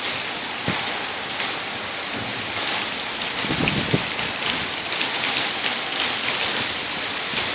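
Heavy thunderstorm rain falling steadily, an even hiss with many separate drops ticking on nearby surfaces. A brief low rumble comes a little past halfway.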